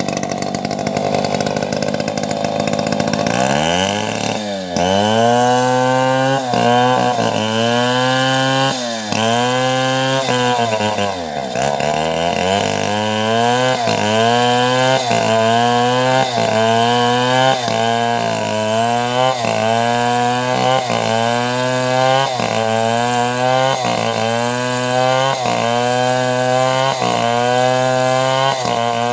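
Two-stroke chainsaw ripping a log lengthwise into planks. It runs at a steady high pitch at first. From about four seconds in, the engine note sags and recovers over and over, about once a second later on, as the chain bites into the wood and lets off. It sags deepest twice, near the start of the cutting and about halfway through.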